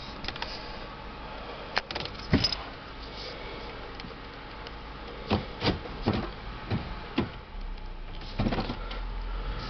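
A string of irregular knocks and clicks, about eight of them, over the steady low hum of the Crown Victoria's 4.6-litre V8 idling, heard from inside the cabin.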